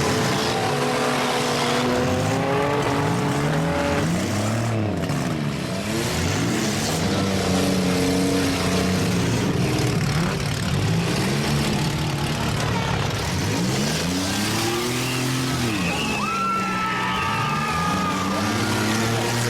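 Several demolition derby car engines revving up and down at once, their pitches rising and falling in overlapping swells.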